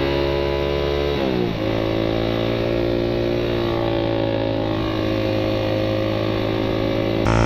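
Suzuki Satria FU 150's single-cylinder four-stroke engine and exhaust running under way, a steady note whose pitch drops sharply about a second in and then picks up and holds. The sound changes abruptly, getting louder, near the end.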